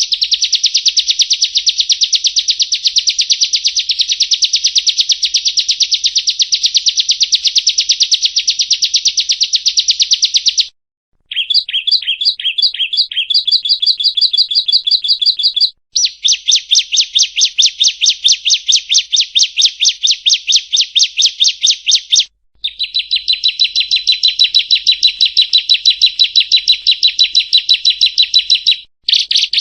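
Bar-winged prinia (ciblek kristal) singing long, loud, rapid trills of repeated high notes in several phrases of several seconds each, with short breaks between them and one shorter phrase of separate falling notes that runs into a higher trill.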